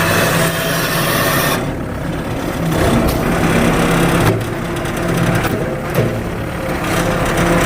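Two-stroke chainsaw cutting logs. The engine speeds up and slows again several times, with a harsh rasp each time the chain bites into the wood.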